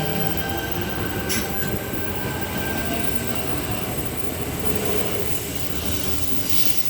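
Eight-car Tangara electric suburban train pulling out of the platform: traction motors whining over the running noise of the wheels on the rails. The sound eases off near the end as the train draws away.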